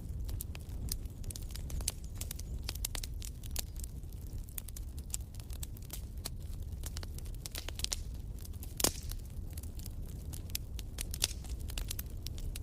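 Wood fire in a fireplace crackling with frequent irregular snaps over a steady low rumble, with one sharper pop about nine seconds in.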